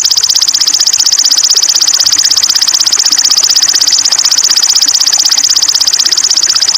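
A loud, high-pitched rattling trill of fast, evenly spaced pulses, held steady without a break. It is one element of a birdsong tutor recording used to teach cage birds to sing.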